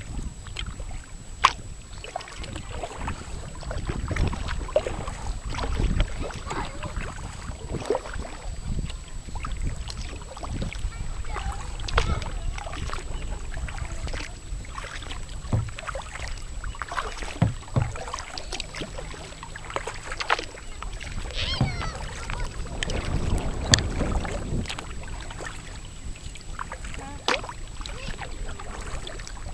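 Kayak paddling: water splashing and dripping from the paddle strokes, with scattered sharp knocks and a low rumble.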